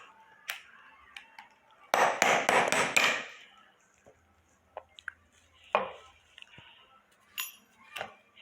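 Tools working on metal: a quick run of five or six sharp knocks about two seconds in, then a few scattered single clicks and taps.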